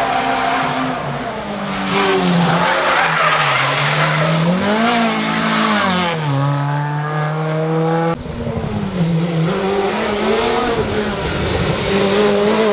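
Rally car engines revving hard, the pitch dropping and climbing through gear changes, with tyres skidding and squealing. About eight seconds in the sound cuts abruptly to another car accelerating.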